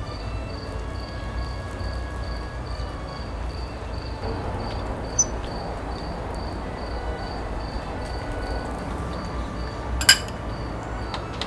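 Cricket chirping steadily in short even pulses, about three a second, over a low background rumble, with a sharp clink about ten seconds in.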